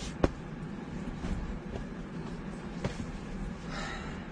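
Steady low rumble of storm wind and rain against a motorhome, with one sharp knock about a quarter second in and a few lighter taps.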